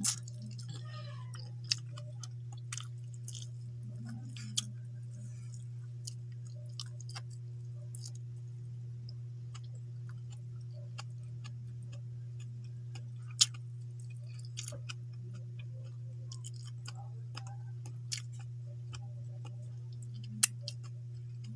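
A person chewing and smacking on a mouthful of rice and fish eaten by hand, with scattered sharp clicks from mouth and fingers, over a steady low hum.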